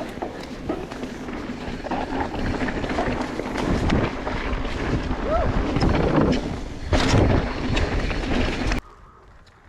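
Mountain bike ridden over a dirt trail: tyres rolling over dirt, the bike rattling with many small knocks, and wind buffeting the camera's microphone. The noise drops off suddenly near the end.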